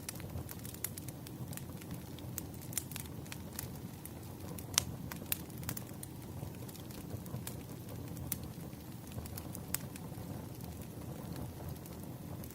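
Campfire crackling: a steady low rumble of burning wood with irregular sharp pops and snaps, the loudest about five seconds in.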